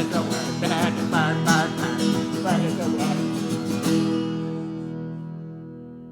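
Acoustic guitar strumming a fast rhythm, with short, bending sung calls from a parrot over it. About four seconds in, the strumming stops on a final chord that rings and slowly fades.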